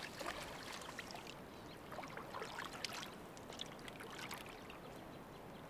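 Faint, irregular sloshing and splashing of shallow water as a lioness drags a waterlogged roan antelope carcass through it.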